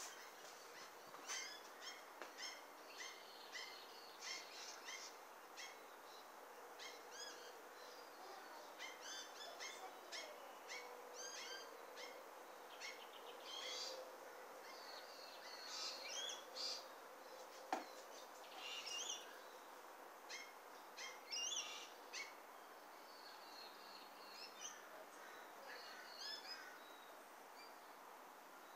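Small birds chirping and whistling, many short high calls throughout, over faint outdoor background noise. A single sharp click a little past halfway.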